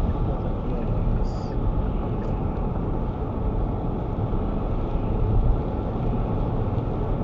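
Steady engine and road noise inside a moving car on a wet road.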